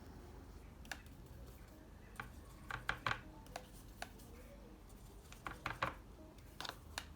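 Painting tools handled on a desk: light clicks and taps, in a few short clusters.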